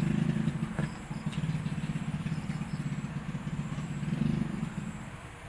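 A small engine running with a fast, even pulse that fades near the end, with one click about a second in.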